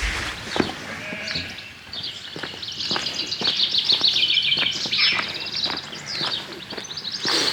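Small birds singing, a busy twittering of rapid high chirps that grows louder about two seconds in.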